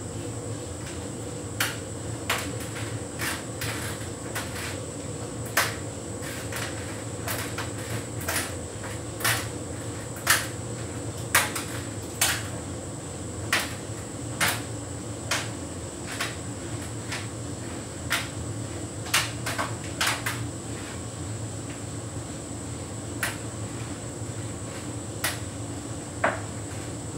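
Hotpoint heat pump tumble dryer running a synthetics cycle: a steady hum with a thin high whine, and irregular knocks and clicks as the load tumbles in the drum.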